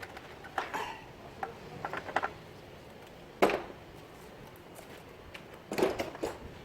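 Scattered clinks and knocks of metal tools and parts being handled, with louder knocks about three and a half seconds in and again around six seconds.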